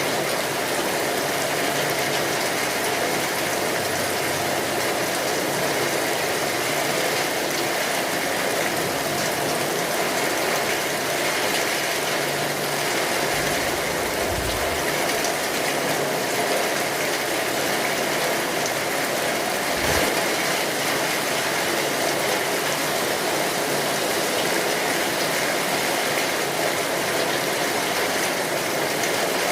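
Steady rain falling, a dense even patter, with a couple of brief low thumps about halfway through.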